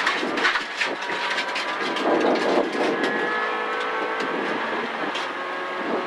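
Renault Twingo R1 rally car's engine running hard at high revs, heard from inside the stripped cabin as a steady high engine note. A few sharp ticks sound over it.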